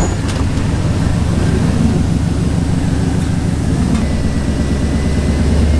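Truck engine running with a steady low, rhythmic rumble as the truck is driven slowly, with a faint high steady whine in the second half.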